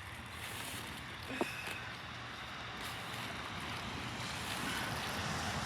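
Steady rushing outdoor background noise that grows slowly louder, with one brief faint high chirp about a second and a half in.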